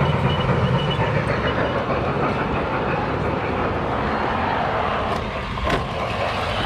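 Small electric model train running on its track close up: a steady motor hum and wheel rattle, with one sharp click near the end.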